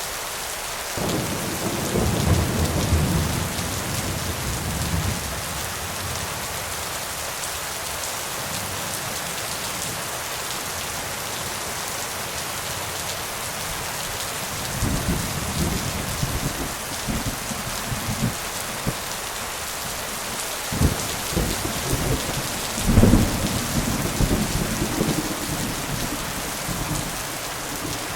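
Steady rain falling in a thunderstorm, with rolls of thunder: one rumble near the start, then longer rolling thunder through the second half, the loudest crack about four-fifths of the way through.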